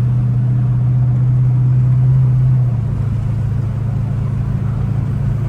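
Chrysler 300's Hemi V8 engine and drivetrain droning steadily while driving, heard from inside the cabin as a steady low hum that eases slightly about two and a half seconds in.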